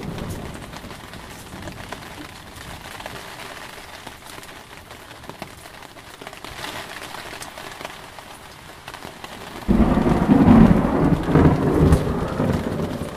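Steady heavy rain with thunder: a rumble dies away in the first seconds, then a sudden loud clap of thunder breaks about ten seconds in and rolls for a couple of seconds before fading.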